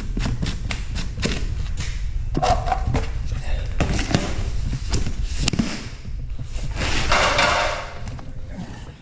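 Granular weed preventer rattling in a plastic shaker bottle: a run of quick rattling clicks, about four a second, then scattered knocks and a few longer rustling pours, over a steady low rumble.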